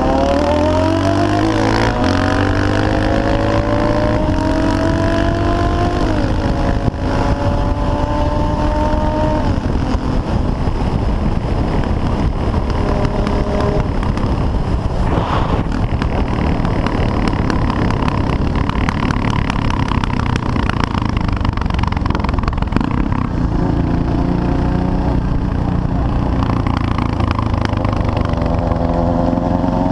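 CCM R30 supermoto's 644 cc Suzuki single-cylinder engine pulling hard, its pitch rising through several gear changes over the first ten seconds. Then the bike holds road speed with heavy wind rush over the microphone, and the engine climbs again near the end.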